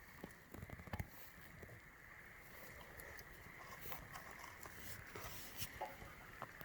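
Wood campfire crackling, with scattered small sharp pops and ticks over a soft steady hiss.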